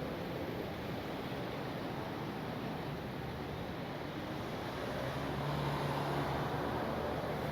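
Steady outdoor traffic noise, with a motor vehicle's engine hum growing louder about five seconds in as it passes close by.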